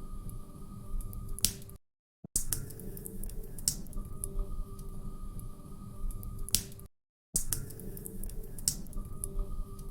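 Log fire crackling, with small sharp pops over a low rumble and a louder pop every few seconds. The sound cuts out completely twice for about half a second, where a short recording loops.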